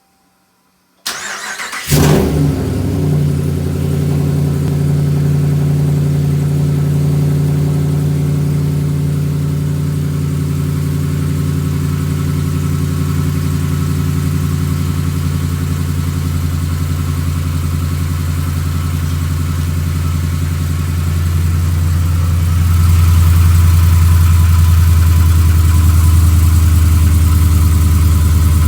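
2015 Ram's 5.7 L Hemi V8 with long-tube headers cranked by the starter, catching about two seconds in and settling into a steady idle that grows somewhat louder about twenty-two seconds in. The engine carries a knock that the owner suspects may be piston slap.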